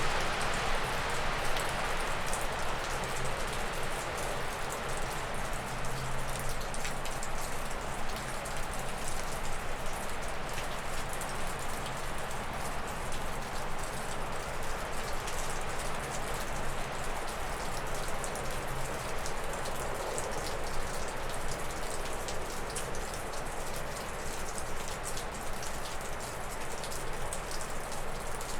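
Meltwater dripping steadily off a roof, a dense patter of drops, over wind blowing through spruce and birch trees. A gust dies away in the first couple of seconds.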